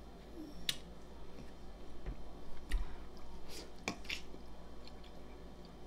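A person chewing a bite of corned beef sandwich close to the microphone, with wet mouth sounds and a few short, sharp smacks and clicks.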